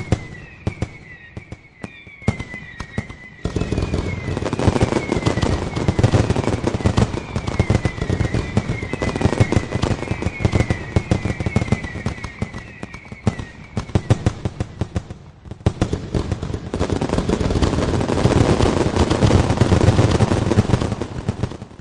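Fireworks barrage: dense rapid bangs and crackling in two heavy salvos with a short lull between. Over the first half, a string of short falling whistles repeats.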